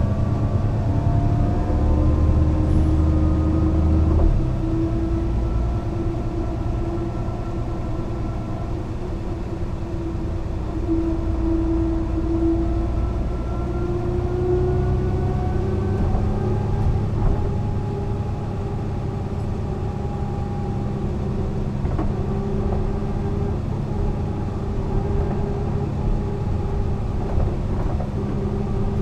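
Mercedes-Benz O 405 NÜ bus under way, its diesel engine pulling with a note that climbs slowly, drops and climbs again as it goes through gear changes. A heavy low rumble eases about four seconds in.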